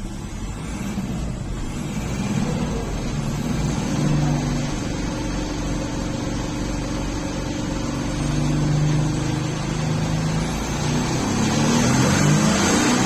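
Volkswagen Touran 1.9 TDI four-cylinder turbodiesel engine running under load, its note shifting in pitch and climbing steadily louder, with the revs rising toward the end.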